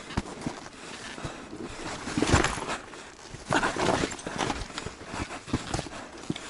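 Enduro motorcycle picking its way over rocks, with irregular knocks and clattering and louder bursts about two and a half and four seconds in.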